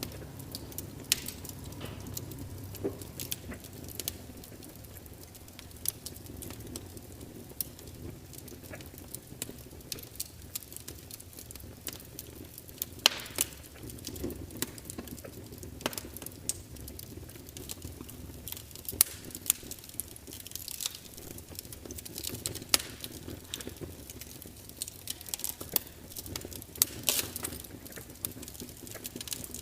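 Log fire burning and crackling: a steady low roar of flames with frequent irregular sharp pops and snaps from the burning wood.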